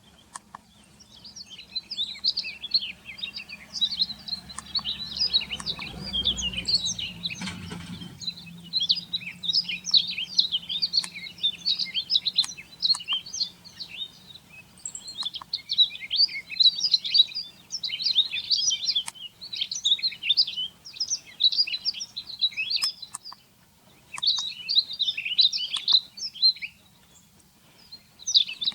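Buntings singing: quick runs of high twittering notes in phrases of a couple of seconds, nearly continuous with a few short breaks. A low rumble sounds briefly about six seconds in.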